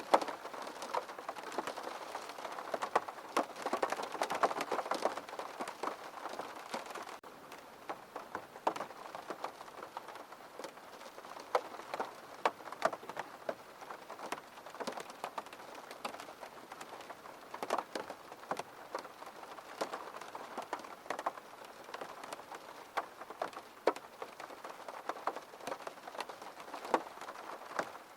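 Steady rain with many close, sharp drops tapping on a surface. It steps a little quieter about seven seconds in.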